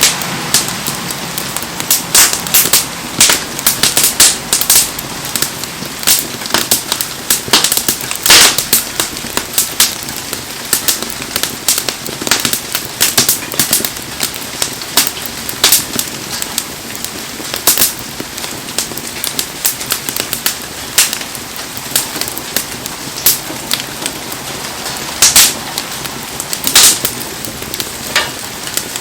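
Wood bonfire crackling, with frequent sharp pops and snaps, over a steady hiss of heavy rain.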